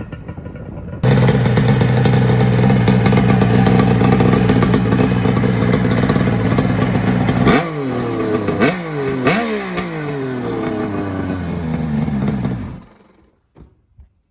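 Kawasaki 750SS H2 two-stroke triple running loud through expansion-chamber exhausts, held at high revs. Then it is blipped three times in quick succession, each rev rising sharply and falling back. It cuts off near the end.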